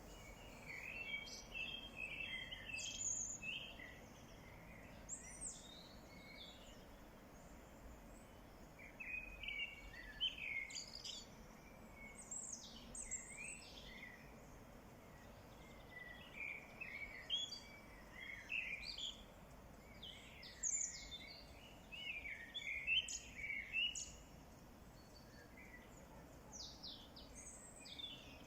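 Songbirds singing outdoors in short chirping phrases that come every few seconds, over a faint steady background hiss.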